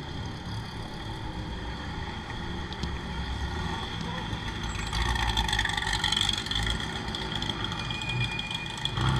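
Ford GT40's V8 engine running at low speed as the car drives slowly along the pit lane, a low rumble that grows louder about halfway through.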